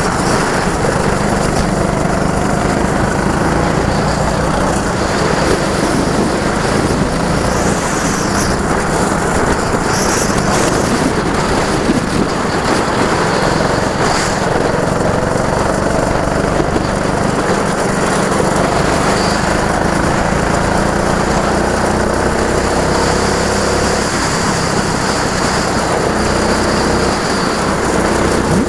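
Go-kart engine running on track, its pitch rising and falling as the throttle is opened and closed, over a steady rushing noise.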